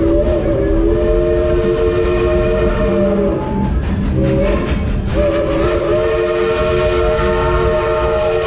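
Chime steam whistle of a 1938 Baldwin 2-8-2 narrow-gauge steam locomotive blowing a chord: a long blast of about three seconds, a short blast, then another long blast, over the low rumble of the moving train.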